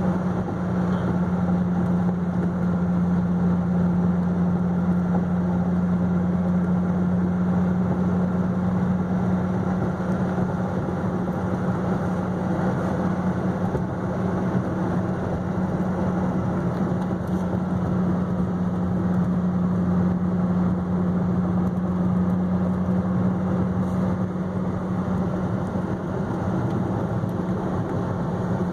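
Inside the cabin of a 2010 Dodge Viper SRT10 driving at a steady speed: its 8.4-litre V10 drones at an even pitch over tyre and road noise.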